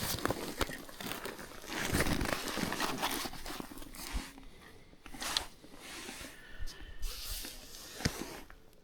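Irregular rustling and crunching, with a few sharp clicks, loudest about two seconds in.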